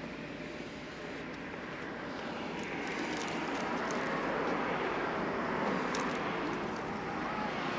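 Steady rushing noise of road traffic, swelling a little in the middle as a vehicle goes by and then easing off.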